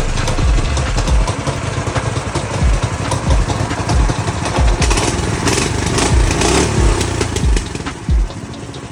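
Small single-cylinder engine of a mini bike running, with irregular low thumps.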